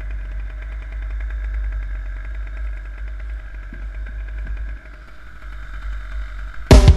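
Steady engine drone with a low rumble and faint steady whine. Loud music with drums cuts in just before the end.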